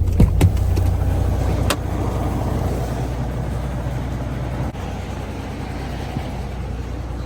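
Semi-truck diesel engine running with a steady low rumble, with a few sharp clicks in the first two seconds.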